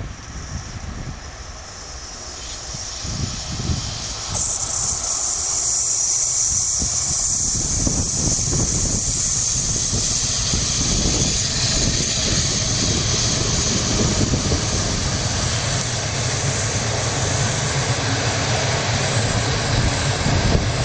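ET22 six-axle electric locomotive and its passenger coaches passing close by. The rumble grows over the first few seconds and becomes a steady rumble of wheels on the rails, with a high hiss that sets in suddenly about four seconds in.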